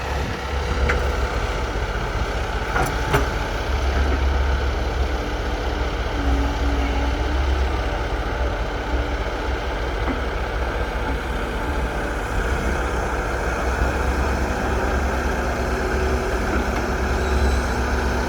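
Diesel engine of a working excavator running steadily under load, with a few sharp knocks about one and three seconds in.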